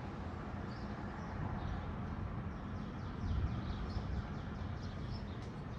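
Birds chirping, with a rapid trill of short high notes through the middle, over a steady low rumble that swells slightly a little past halfway.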